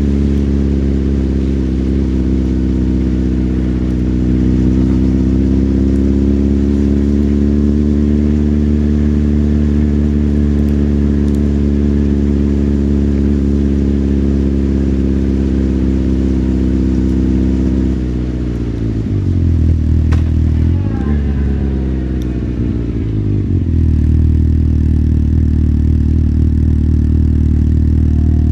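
Motorcycle engine running at a steady pitch. From about eighteen seconds in, its pitch drops and climbs back twice, then it settles into steady running again.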